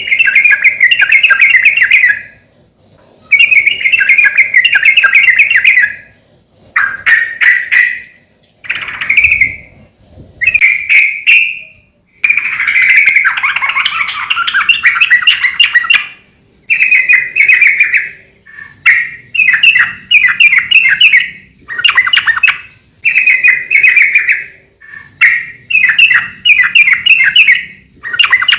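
Yellow-vented bulbul (trucukan) singing loud, bubbly, chattering phrases over and over, each lasting one to a few seconds with short pauses between them.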